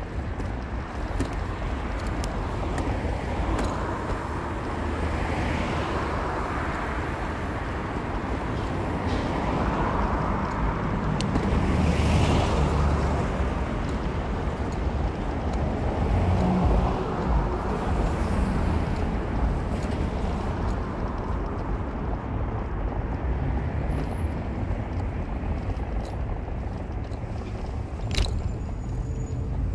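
A car driving on city streets: steady engine and road rumble, with swells of traffic noise rising and falling several times. There is a single sharp click near the end.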